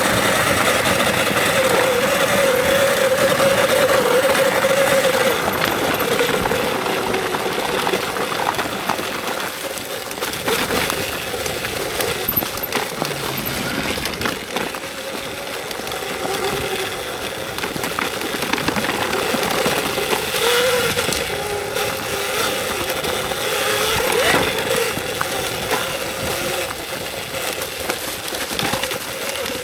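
Electric dirt bike's motor whining, the pitch wavering up and down with the throttle, over a steady rush of wind and tyre noise with scattered knocks and rattles.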